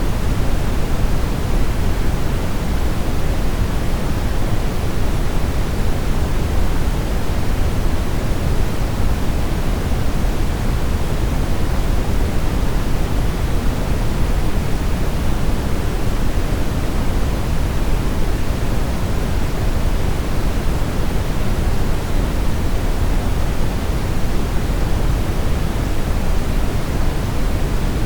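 Steady brown noise: an even, unchanging hiss weighted heavily toward the low end, like a deep rumble.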